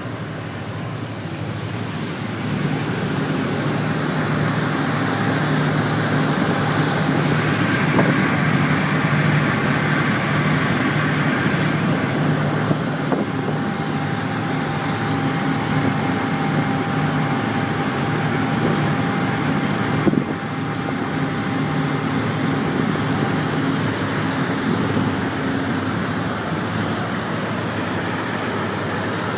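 Low, steady engine drone of a ship under way, swelling over the first few seconds and then holding steady, with wind noise on the microphone.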